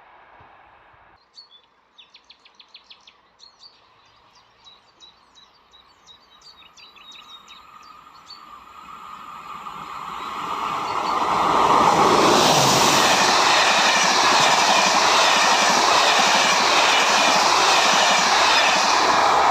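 A Corail passenger train approaching and passing: its noise builds over several seconds, then stays loud and steady as the coaches go by.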